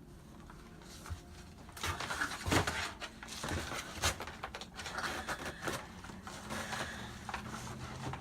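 Packaging being handled as a ring light is pulled out of its box: a dense run of rustling, crinkling and small knocks that starts about two seconds in, with the loudest knocks near the middle.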